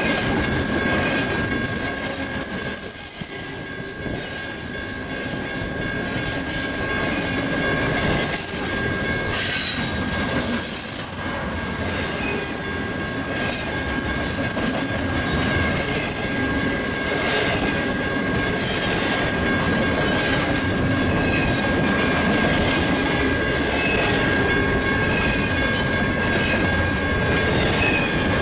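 Double-stack intermodal container cars rolling past close by: a steady rumble of steel wheels on the rails with clicks at rail joints and short high wheel squeals now and then. A steady high tone from the pedestrian crossing's electronic warning bell runs under it.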